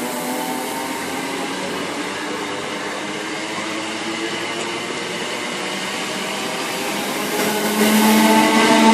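A train running through the station: a steady rushing noise with a whining motor tone that fades, then swells louder again near the end.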